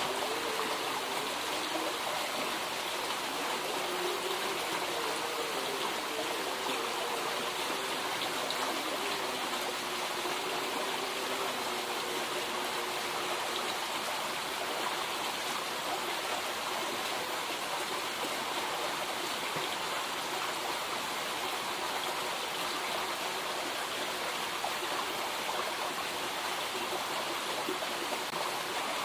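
Flowing river water rushing and splashing steadily.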